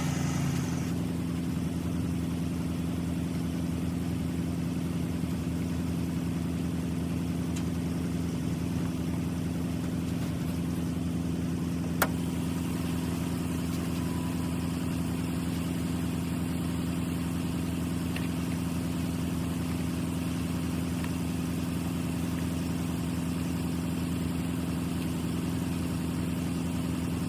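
Heavy diesel engine idling steadily at an even pitch, with a single sharp click about halfway through.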